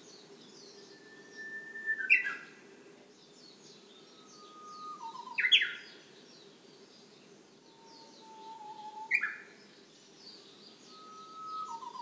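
Japanese bush warbler (uguisu) singing its "hoo-hokekyo" song: a long held whistle, then a quick, higher flourish. The song comes about every three and a half seconds, three times, with a fourth beginning near the end, over faint chirps of other small birds.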